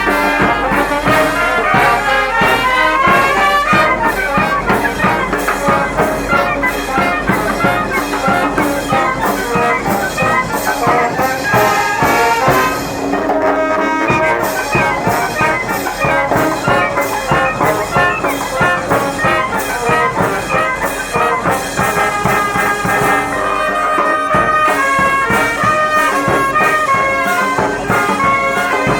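Brass band playing a Guatemalan procession piece (sones y alabados): trumpets and trombones carrying the melody over a steady percussion beat.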